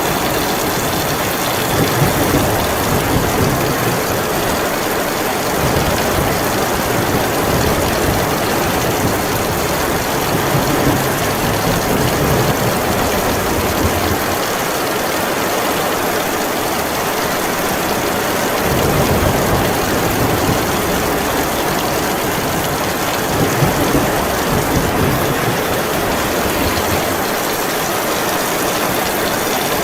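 Heavy rain falling steadily, with a low rumble underneath that swells and fades several times.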